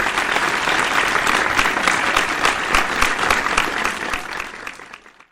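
Crowd applause: many people clapping densely, fading out over the last second or so.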